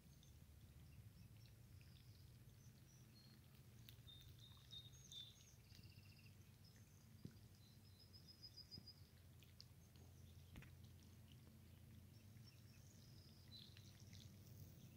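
Faint songbirds calling: scattered short, high chirps and whistled notes with a brief trill about eight seconds in, over a low, steady rumble.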